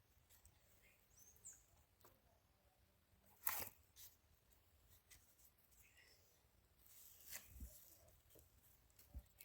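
Near silence, broken by a few faint knocks and rustles of firewood being handled and stacked for a bonfire, the loudest about three and a half seconds in.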